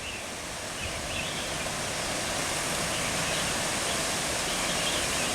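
Rushing water of a stream swollen by heavy rain, a steady rush that grows slowly louder.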